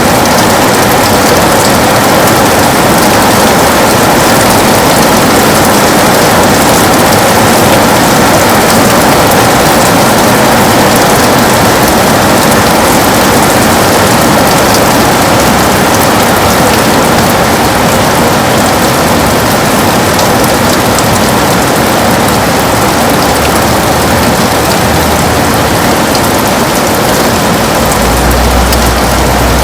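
Heavy rain pelting a window pane in a steady, dense patter, with a low rumble coming up near the end.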